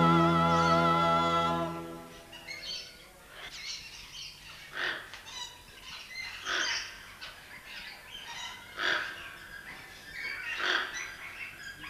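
A held music chord fades out about two seconds in, then birds call outdoors, a short call every second or two.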